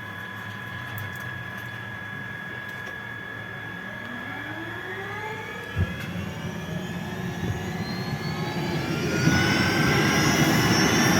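Airbus H125 helicopter's turboshaft engine spooling up: a turbine whine rises steadily in pitch and grows louder from about four seconds in, with one short knock near the middle. A rushing noise builds beneath the whine toward the end.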